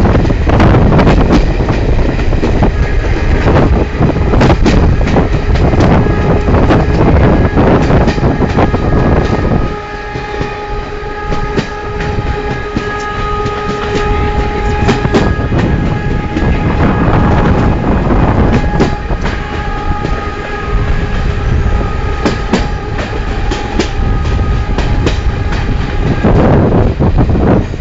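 Indian Railways passenger train, the 19031 Yoga Express, running in with its wheels clattering and rumbling over the rails, while the locomotive's horn sounds a long, steady multi-note blast, held from about ten seconds in until near the end.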